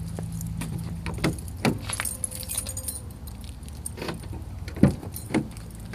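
2013 Ford F-150's 3.7-litre V6 idling steadily through a Flowmaster Super 40 dual exhaust, with a handful of sharp clicks, knocks and light rattles from handling on the truck, the loudest near the end.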